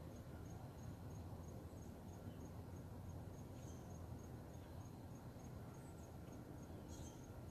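Faint insect chirping: one thin, high pulse repeating about three times a second, over a low steady background rumble.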